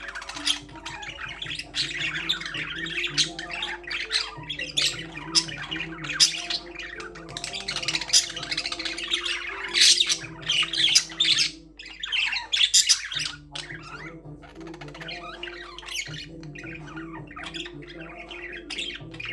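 Budgerigars chattering continuously, a dense mix of quick warbling chirps and sharp squawks that peaks about halfway through and thins out briefly just after.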